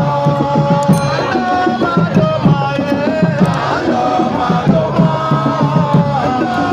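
A supporters' crowd chanting and singing over fast, steady hand-drum beats.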